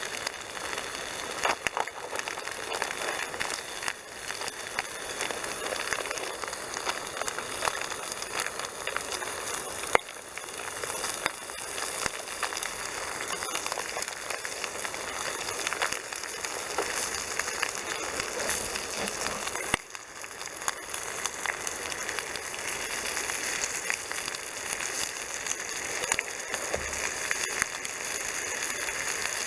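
Bacon and sausages sizzling in a frying pan over a campfire: a steady hiss with many small pops and crackles.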